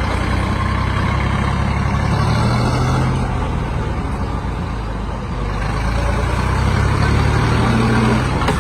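Tractor's diesel engine running hard under heavy load, swelling louder twice as it is pushed.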